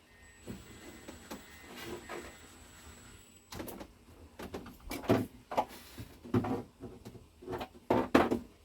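A run of knocks and clatters from hard parts being handled, about seven or eight of them in the second half, loudest near the end. A faint high whine comes before them and stops about three and a half seconds in.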